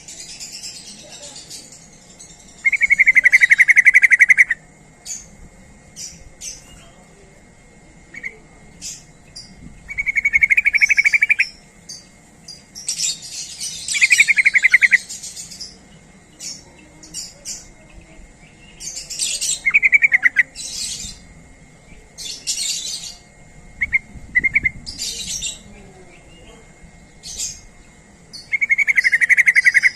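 Yellow-vented bulbul (trucuk) calling: loud rattling trills of about a second and a half, repeated every few seconds, with short higher chirps and twitters in between.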